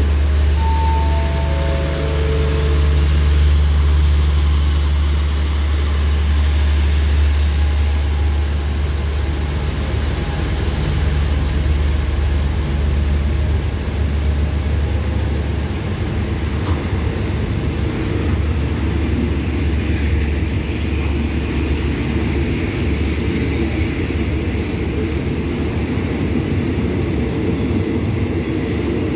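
Steady low hum of a diesel express train idling at the platform, with four short falling electronic chime tones about a second in. From about halfway the hum eases and the rolling rumble of the coaches grows as the train starts to move off.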